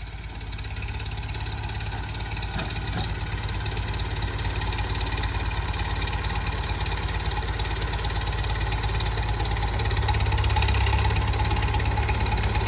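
Massey Ferguson 165 tractor engine running steadily, growing gradually louder over the first ten seconds.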